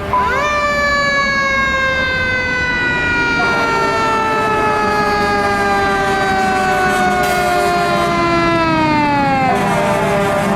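Fire truck's mechanical siren winding up fast to a high wail, then slowly winding down over about nine seconds, falling faster near the end. A steady low hum runs underneath.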